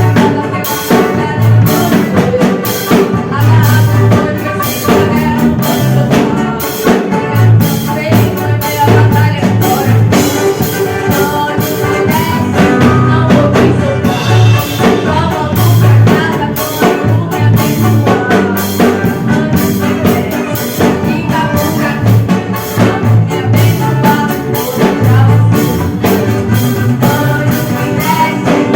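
A band playing a song through a sound system, with a drum kit keeping a steady beat under bass notes.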